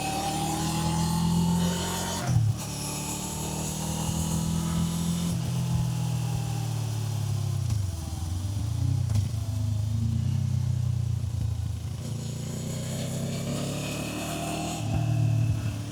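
Kawasaki Z500's parallel-twin engine under way, its pitch rising as it pulls, then a sharp break about two seconds in, as at a gear change. Revs ease off near the middle and climb again toward the end.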